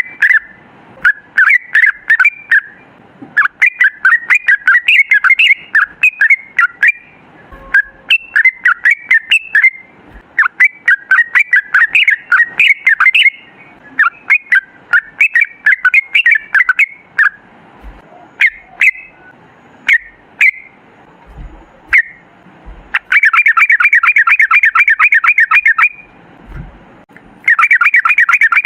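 Yellow-vented bulbul (trucukan) singing loudly in bursts of quick chattering phrases. Near the end it breaks twice into a fast, even rolling trill, the long 'ropel' song that keepers prize.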